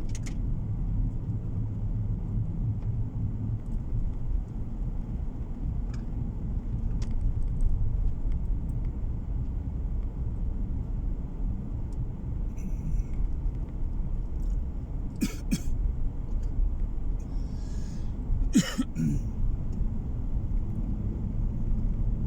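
Steady low road and engine rumble heard from inside a moving car. Two brief sharp noises break through, about 15 seconds in and again about 19 seconds in.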